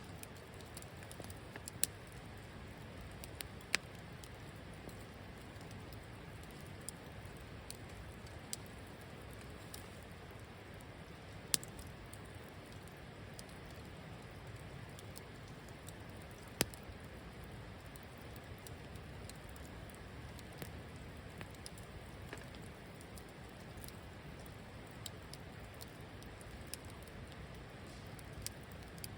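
Campfire burning with a steady low hiss and sparse, irregular crackles and pops, a few of them sharp and loud.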